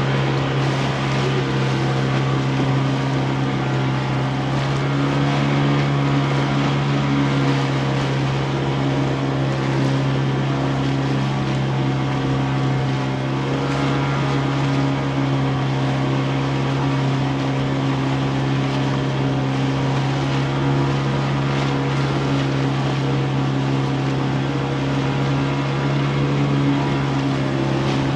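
Motorboat engine running at a steady speed: a constant drone that holds one pitch, with noise from the water and wind over it.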